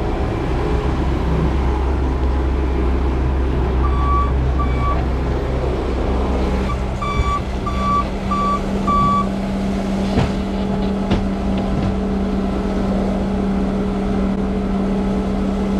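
A vehicle engine runs steadily while a reversing alarm beeps, two beeps about four seconds in and then about five more at roughly two a second from about seven to nine seconds. Two sharp knocks follow, around ten and eleven seconds.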